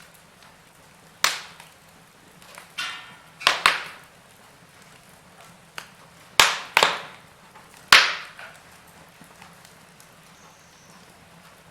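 Logs burning in a fireplace, crackling: half a dozen sharp pops and snaps spread through, two coming close together about three and a half seconds in, over a faint steady hiss.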